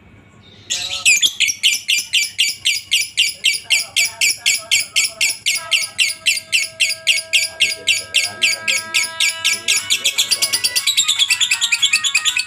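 Lovebird in a long 'ngekek' chatter: a rapid run of sharp, high notes, about four or five a second, starting about a second in and quickening near the end.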